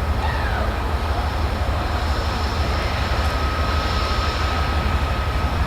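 Diesel locomotive running, a steady low rumble with a faint high whine over it.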